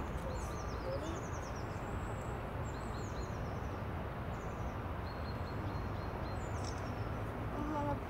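Small birds chirping in short, high-pitched falling calls, repeated again and again over a steady low background rumble.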